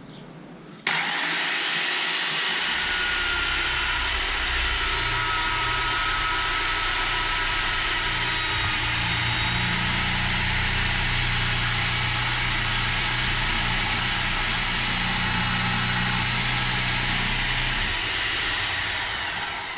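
An engine running steadily under a constant hiss. The sound starts abruptly about a second in, a low hum comes in soon after, and it fades out near the end.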